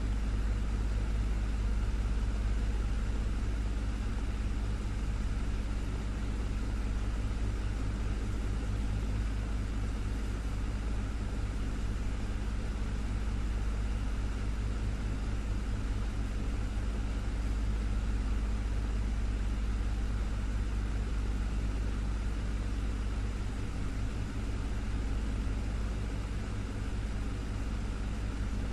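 Desktop fan running steadily: a constant low hum from the motor with an even whoosh of moving air over it.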